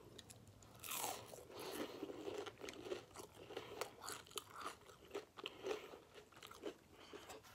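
Close-up chewing of a crispy fried hash brown: soft crunches and wet mouth clicks, irregular and fairly faint.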